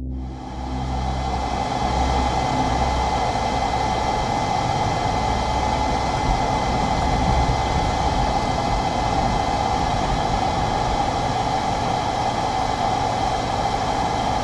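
Steady road and engine noise inside a moving storm-chase vehicle, holding even throughout.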